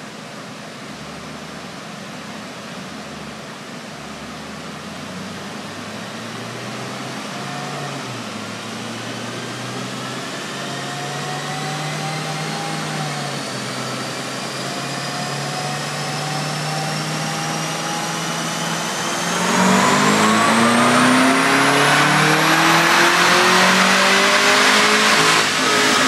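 Supercharged 6.2-litre V8 of a 2011 Cadillac CTS-V coupe with a Corsa exhaust, run on a chassis dyno. The engine note climbs in steps at light throttle under a whine that rises steadily with road speed. About 19 seconds in it goes to full throttle, much louder, and its pitch rises fast, dipping briefly near the end.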